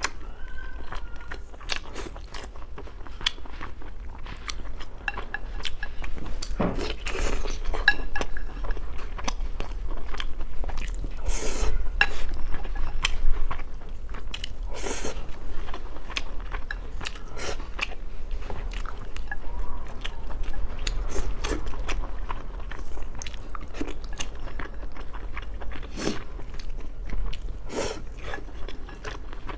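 Close-up eating sounds: a person biting and chewing red-braised pork over rice, with irregular short clicks throughout.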